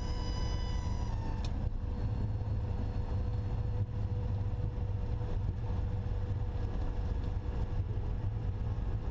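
Cessna 172SP's four-cylinder Lycoming engine and propeller running at low power, a steady low drone heard inside the cabin; a faint higher whine drops in pitch and fades in the first second or so as the engine settles back.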